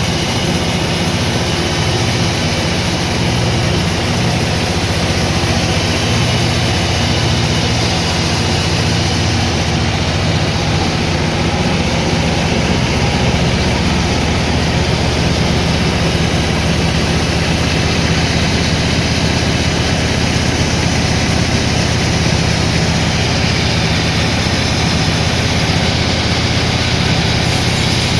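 Sawmill machinery running steadily and loudly, with no breaks.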